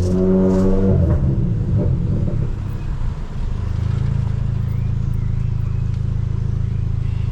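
Volkswagen Polo GTS's turbocharged four-cylinder, stage 2 tuned with a sports exhaust, holding a steady high note that breaks off about a second in as revs fall unevenly, then settles into a steady low drone at low revs from about halfway.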